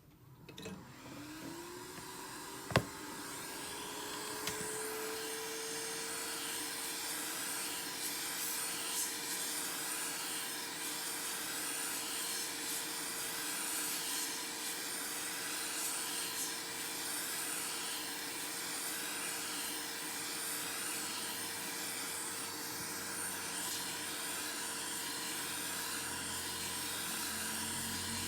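Small electric motor spinning up, its whine rising in pitch over the first five seconds, then running steadily with a hiss of air. A single sharp click comes about three seconds in.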